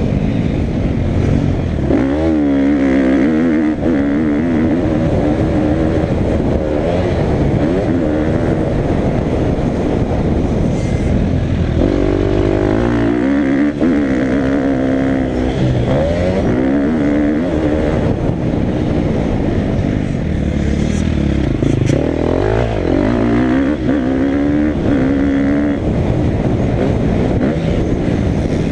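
Motocross dirt bike engine revving hard and easing off again and again, its pitch climbing and dropping every few seconds.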